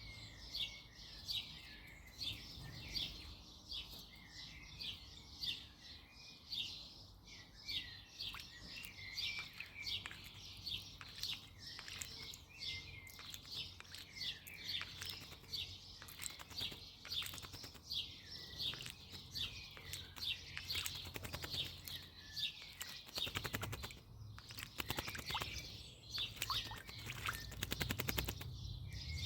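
Garden birds chirping throughout with many quick, falling chirps, while a female blackbird bathes: bursts of rapid fluttering and splashing as it flicks water with its wings, densest in the last third.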